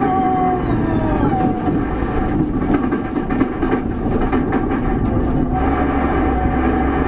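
Loud, steady vehicle noise, with a pitched tone that slides downward over the first second and a half before levelling off.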